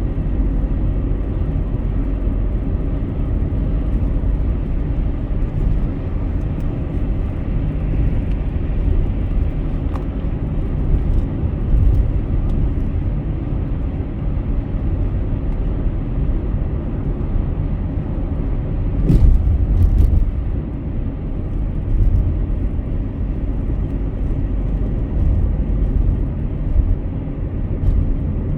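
Car driving at highway speed: a steady low rumble of road and engine noise, with one short sharp knock about two-thirds of the way through.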